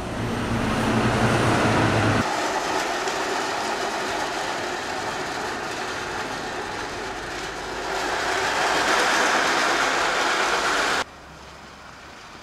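A train running on the rails: a steady rushing noise that swells about two seconds in, eases, swells again, and cuts off abruptly near the end.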